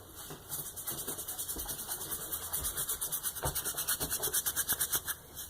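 Rapid rhythmic scratching or rubbing, about eight to ten strokes a second, with a few soft knocks.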